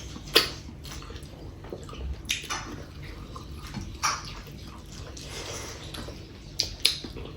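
Wet eating sounds of chicken curry with rice and gravy: chewing and lip smacks, with several sharp clicks, the loudest about half a second in and two more close together near the end.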